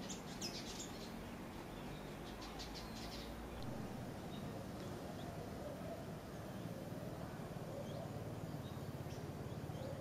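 Small birds chirping: a few high chirps at the start and a quick run of chirps about two seconds in, then fainter scattered calls, over a steady low background hiss.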